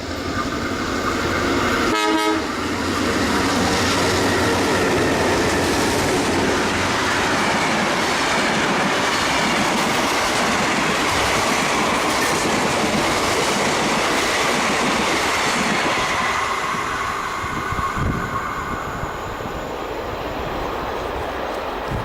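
Diesel-electric locomotives X31 and B74 of the Victorian Railways give a short horn blast about two seconds in, then the train passes close by: a loud, steady rush of engine and wheel noise that eases off over the last several seconds.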